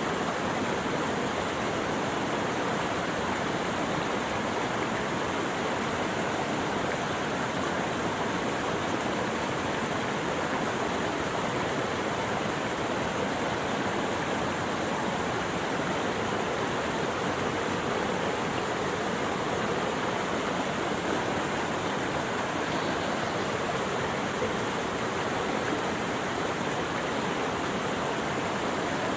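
Running water rushing steadily, an even unbroken wash with no birds or other sounds standing out.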